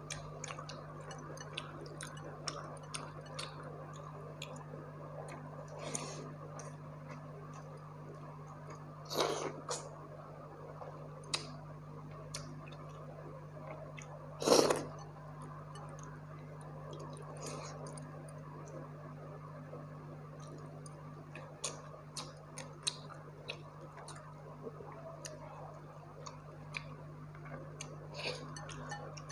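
Close-miked eating sounds: chewing, wet lip smacks and small crunches as pakhala (water-soaked rice) and fried side dishes are eaten by hand, scattered through with two louder mouthfuls about 9 and 14 seconds in. A steady low hum lies underneath.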